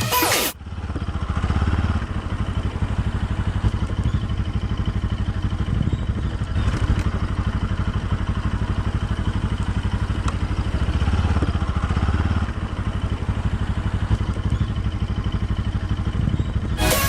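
An engine running steadily with a rapid low pulsing.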